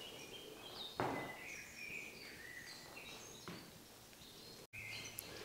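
Small birds chirping faintly, with short high chirps scattered throughout, and a soft knock about a second in and another, weaker one a few seconds later.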